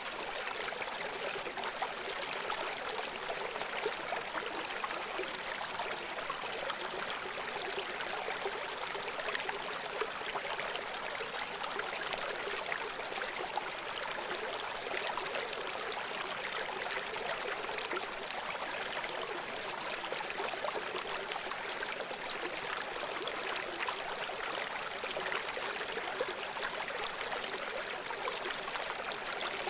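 Running stream: water flowing and splashing over rocks, a steady rushing and trickling with no change in level.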